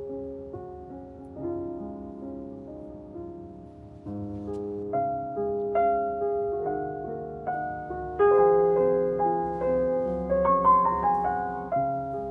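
Soft solo piano background music, slow and gentle at first, growing fuller and louder about four seconds in.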